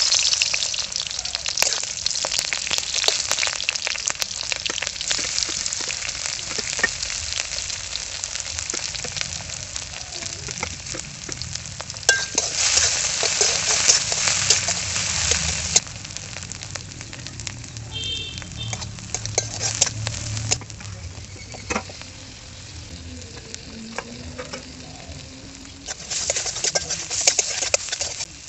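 Sliced onion and potato sizzling in hot oil in a metal kadhai, stirred and scraped with a metal spatula, which clicks against the pan. The sizzle is louder for a few seconds about halfway through.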